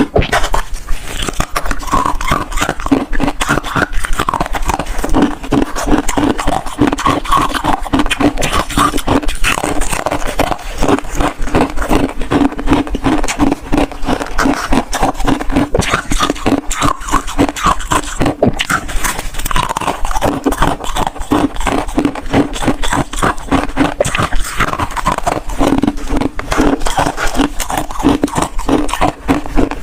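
Freezer frost being scraped and chewed, close-miked: a dense, unbroken run of crisp crunches and scrapes.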